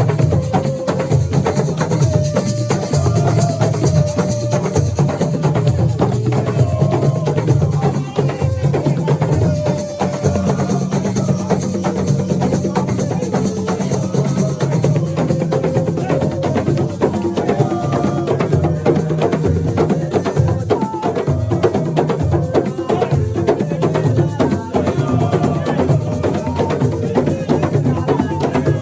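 Assiko music: drums and other percussion playing a dense, driving rhythm, with voices singing over it.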